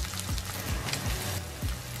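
Pork belly, onion and garlic sizzling in their own rendered pork fat in a stainless steel pan, a steady hiss, under background music with a steady low beat.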